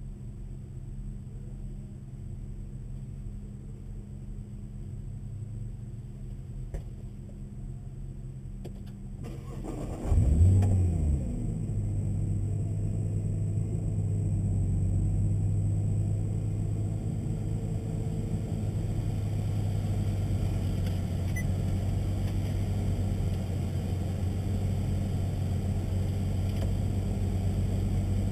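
Nissan GT-R's twin-turbo 3.8-litre V6 started about ten seconds in: a short crank and a quick flare in revs, then it settles into a steady idle. Before the start there is only a low steady hum.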